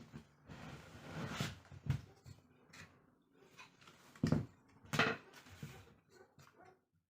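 Irregular knocks and rustling scrapes, with two louder thumps about four and five seconds in.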